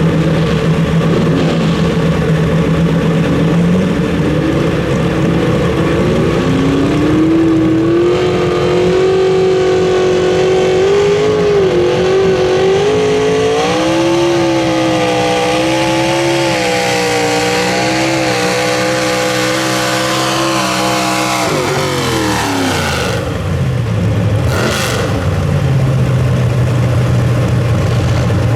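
Pro Stock mini truck engine under full throttle on a pull. It climbs from idle to a high, held pitch that wavers as the truck works against the load. Then it falls off sharply about 22 seconds in and settles back to a steady idle.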